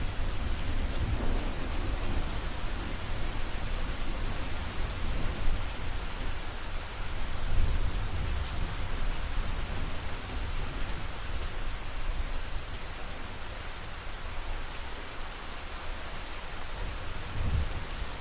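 Steady rain falling, with low thunder rumbling underneath, swelling just at the start and again near the end.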